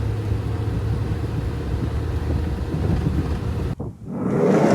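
Steady low rumble of a van driving on the road, heard from inside the cabin. Near the end it cuts suddenly to a rising rush of wind on the microphone.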